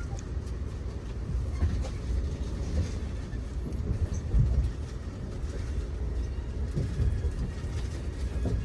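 Steady low rumble of a moving Amtrak Auto Train passenger car rolling on the rails, heard from on board, with faint scattered knocks.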